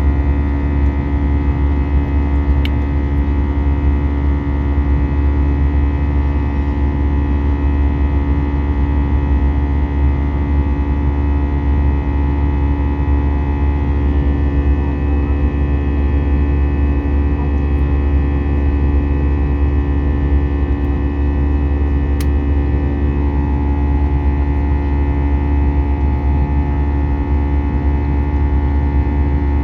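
Steady drone inside an Airbus A320 passenger cabin in flight: the jet engines running with a strong low hum, several fixed steady tones and a rush of airflow noise, unchanging throughout.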